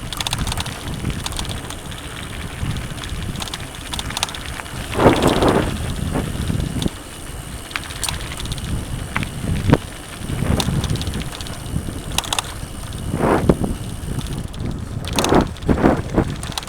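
Mountain bike riding over a dirt and rock trail: tyre rumble with many short clicks and rattles from the bike, and wind on the microphone, swelling a few times.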